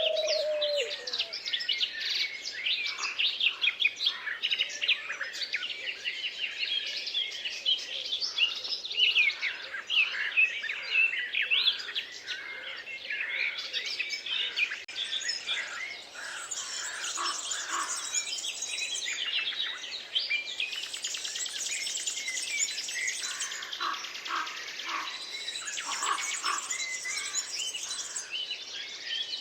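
A dense chorus of many songbirds singing and chirping at once, with rapid overlapping trills. From about halfway through, high fast trills come in repeated phrases of a few seconds each.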